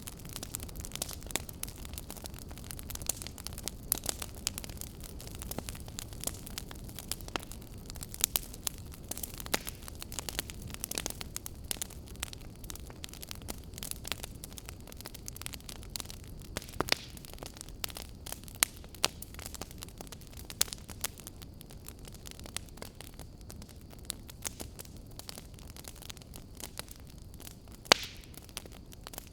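Fire crackling: irregular sharp pops and snaps over a low steady rumble of burning, with a louder pop near the end.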